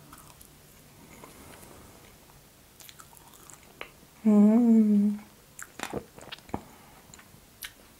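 Soft close-miked chewing of a mouthful of meringue roll with raspberry. About four seconds in comes a loud, closed-mouth "mmm" of enjoyment lasting under a second, followed by a few sharp mouth clicks.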